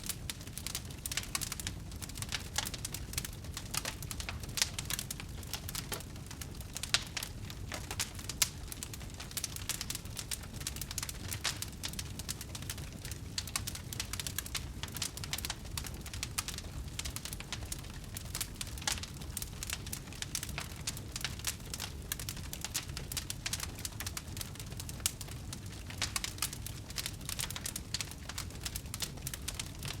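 Burning wood fire crackling steadily, with many small irregular pops and snaps over a low rumble.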